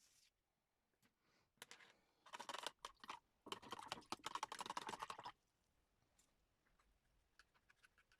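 Quick scratchy strokes on paper in two bursts, one about two seconds in and a longer one of nearly two seconds just after, with faint ticks and taps around them.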